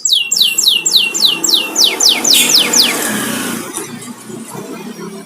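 Domestic canary singing: a fast trill of high notes, each sliding down in pitch, about four a second, then a rougher, fading passage, over a low rumble.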